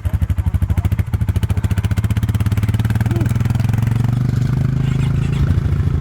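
Vehicle engine running close by with a fast, even firing pulse; its pitch rises a little about two seconds in as it picks up speed, then holds steady.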